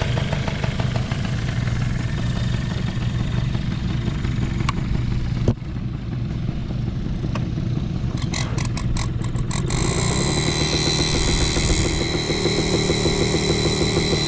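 Yamaha Passol scooter's small two-stroke single-cylinder engine running steadily, with no abnormal noise. A sharp click comes about five and a half seconds in and a quick run of clicks around eight to ten seconds, after which the engine note gets slightly louder and changes.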